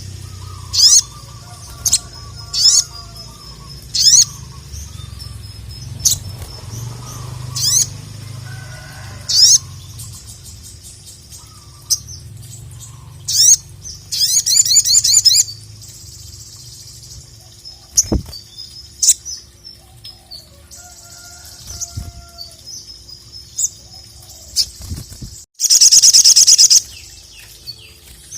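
Sogok ontong (sogon), a crimson sunbird, singing: a string of sharp, high chirps broken by fast trills, with a loud dense burst of song near the end.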